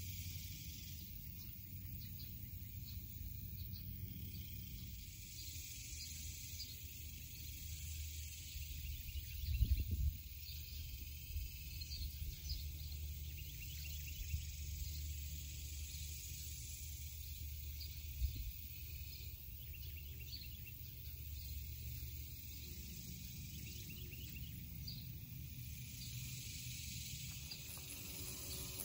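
Outdoor background: a low rumble on the microphone under faint, high chirping and ticking of insects and birds. There is a single louder bump about ten seconds in, and a smaller one about eighteen seconds in.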